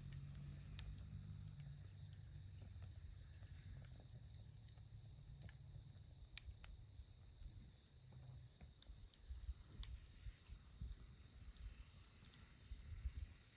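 Faint, steady high-pitched trilling of insects, with scattered sharp pops from a wood campfire crackling.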